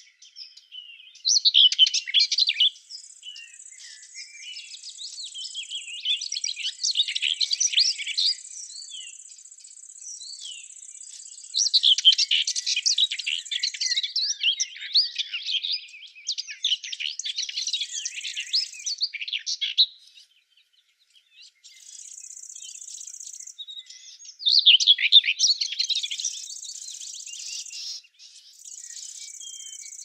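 Small songbirds chirping and twittering in quick, busy bouts with short lulls between them. A thin, steady high-pitched tone comes and goes in the background.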